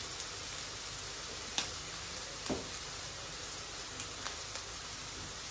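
Chopped onions and black mushrooms sizzling steadily in a stainless steel wok over a gas flame, with a few light ticks over it.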